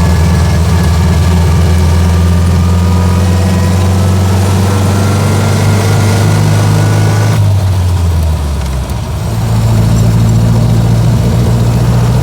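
1924 Austin Seven's small four-cylinder side-valve engine pulling the car along, heard from inside the cabin, with a faint rising whine from the drivetrain. About seven seconds in, the note drops and dips briefly, as in a gear change, then the engine pulls on at a new steady note.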